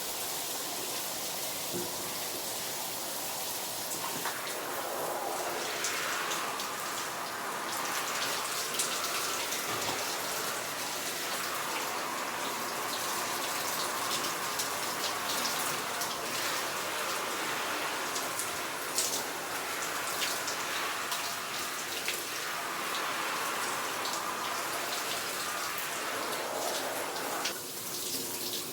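Tap water running and splashing steadily as mud-covered cycling clothes are rinsed. The splashing rises and falls in tone every few seconds.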